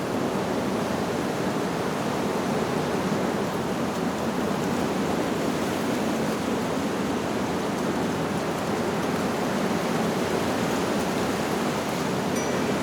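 Wind blowing through leaves: a steady, even rushing with no distinct chime tones.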